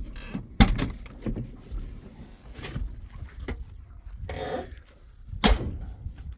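Sharp clunks and knocks of a vehicle's doors being handled, two loud ones about half a second in and near the end, with a brief creak a little after four seconds.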